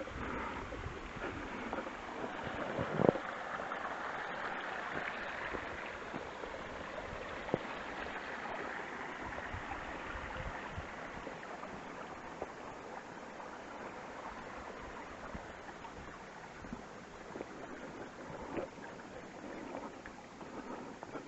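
Steady rush of running water, with a sharp knock about three seconds in and a fainter click near eight seconds.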